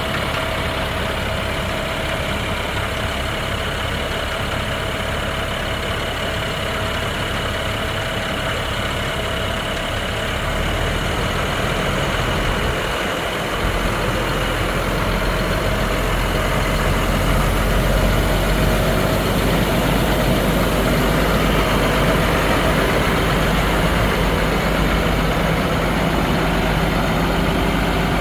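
Diesel engine of a 2013 International 7400 dump truck running steadily while its stainless steel dump bed is lowered, with a thin steady whine over the engine. The engine note gets deeper and louder about halfway through.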